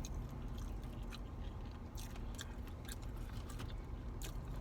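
Close-up chewing and crunching of a taco, with irregular crisp clicks of biting and mouth sounds.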